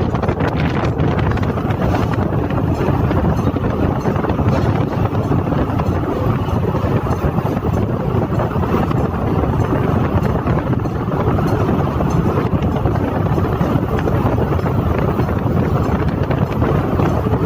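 Steady, loud industrial machinery noise that does not let up, a dense din of the kind heard on a forging shop floor.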